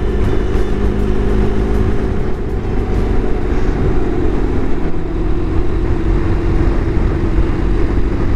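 2018 BMW R1200GS Adventure's boxer-twin engine running steadily on the move, with wind rushing over the microphone.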